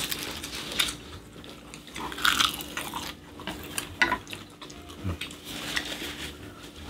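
Close-up eating sounds: chewing of stir-fried squid and rice, with a few light clicks of wooden chopsticks against glass bowls.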